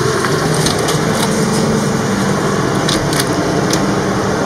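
A steady low hum of a running engine or machine, with a few faint ticks.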